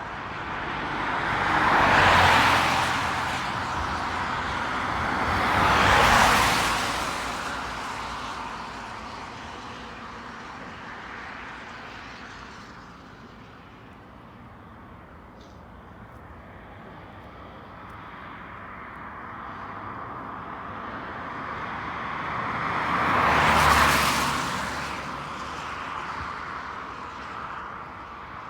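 Road vehicles passing close by, three times: two in quick succession about 2 and 6 seconds in, and another near 24 seconds, each swelling and fading over a few seconds above a steady background hum.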